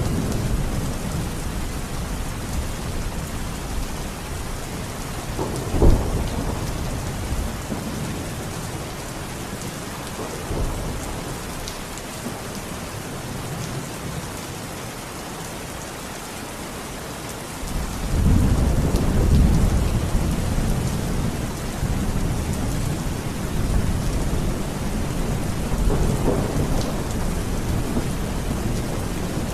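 Thunderstorm: steady heavy rain hissing, with a sharp clap of thunder about six seconds in and a long rolling rumble of thunder that builds about eighteen seconds in and keeps rolling to the end.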